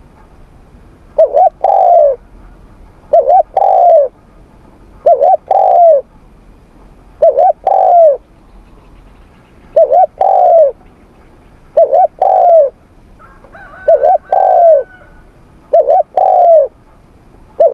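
Spotted dove cooing: a phrase of a quick double note then a longer arched coo, repeated eight times about every two seconds.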